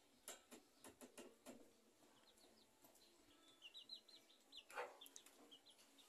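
Faint bird calls: runs of short, high chirps in the middle and one louder call about five seconds in, with a few light knocks near the start.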